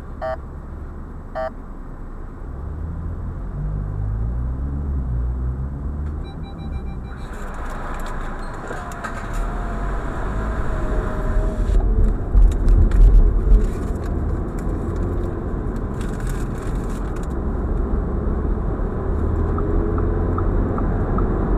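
Audi A4 45 TFSI's turbocharged four-cylinder engine heard from inside the cabin as the car pulls away and gathers speed, its note rising in steps in the first few seconds. Road and wind noise grow steadily louder, with a strong low rumble about twelve seconds in.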